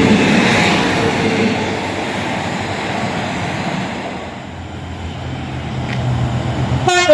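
A passing train, its rushing wheel and rail noise loud at first and then fading, followed by a low steady hum that grows. A short train horn toot sounds at the very end.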